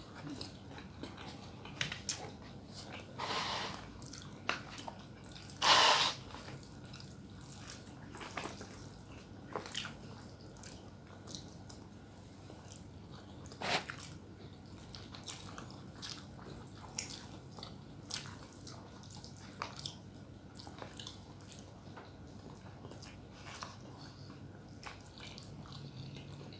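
A person chewing and eating with wet mouth clicks and smacks scattered through, and a few louder noises about 3 s, 6 s and 14 s in.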